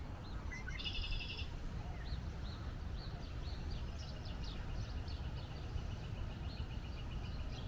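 Songbirds calling over a steady low rumble: a short rapid trill about a second in, then scattered chirps, and a long even series of quick repeated notes through the second half.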